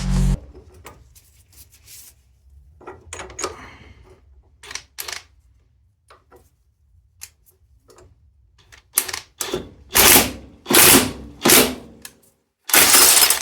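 Metal tools working on a car's front suspension: scattered clicks and clinks, then a run of about five loud, sharp metallic strokes in the last few seconds, the last one longer, as a stuck anti-roll bar fastener is worked free.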